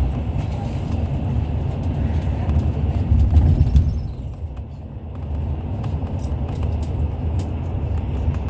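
Hyundai Universe Space Luxury coach heard from inside on the move: a steady low engine and road rumble with light rattles, easing briefly about four to five seconds in before picking up again.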